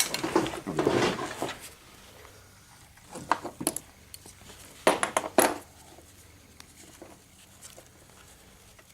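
Small metal clip clinking as it is handled: dense rattling at first, then a few sharp separate clicks.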